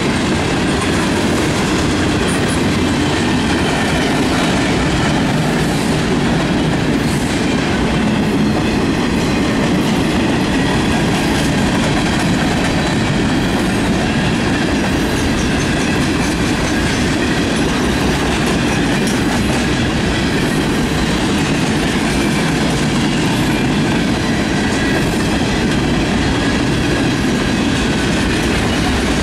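Cars of a Canadian National manifest freight train rolling past: a loud, steady rumble of steel wheels on rail, with clicking as the wheels cross rail joints.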